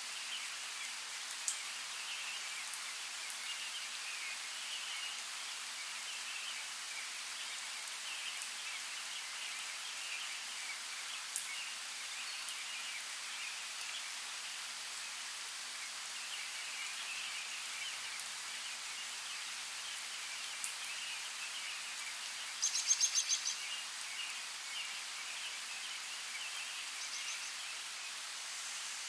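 Steady rain falling, a high even hiss with a few sharper drop clicks. About two-thirds of the way through, a short rapid run of loud high clicks or chirps stands out above the rain.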